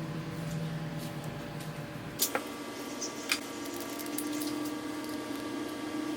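A small motor whirring steadily, its hum shifting higher about two seconds in, with a few sharp clicks.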